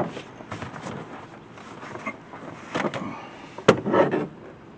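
Clatter and scraping of stiff plastic parts as the stock air intake assembly is worked loose and pulled off the engine, with a sharp knock about three and a half seconds in.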